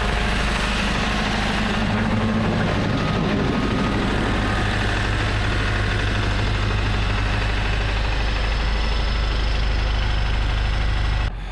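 Heavy tow truck engine running steadily under a broad rushing noise, with no change in pitch. The sound drops off suddenly near the end.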